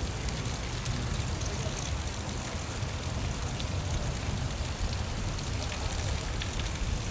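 Steady rain falling: an even hiss with a low rumble underneath and faint scattered drop ticks.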